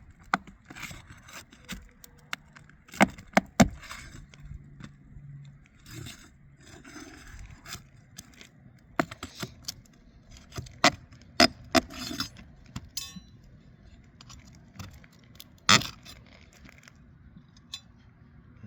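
Hand tool prying and scraping under asphalt roof shingles to free them and pull their nails. It scrapes, with irregular sharp metallic clicks and knocks, a few loud ones about three seconds in and one near sixteen seconds.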